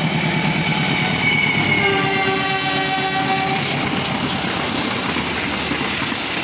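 A train running past with the steady rumble of its wheels on the rails. Its horn sounds one chord lasting about a second and a half, starting about two seconds in.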